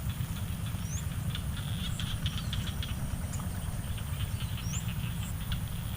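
Outdoor ambience: a steady high insect drone with a few short rising bird chirps, over a low rumble of wind on the microphone and scattered light clicks.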